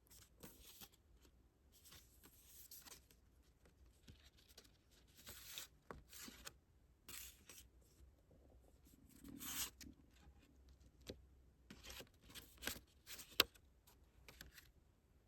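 Paper and plastic packaging of a photobook album being handled: short, faint rustles, scrapes and the odd sharp tap as pieces are pulled out, turned over and set down.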